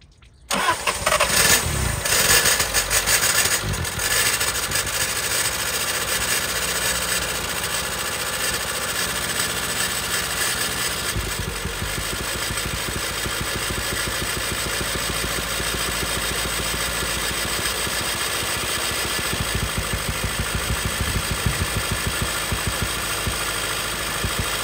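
The four-cylinder engine of a 1975 Honda Civic CVCC starting about half a second in, running unevenly and revving for the first few seconds, then settling into a steady run.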